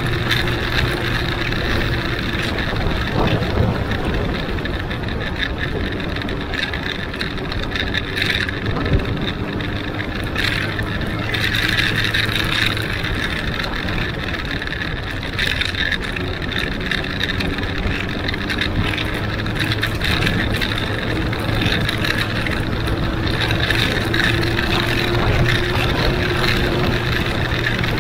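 Benelli Huanglong 600 motorcycle's inline-four engine running steadily under way, its pitch drifting slowly up and down with small speed changes, with wind rushing over the microphone.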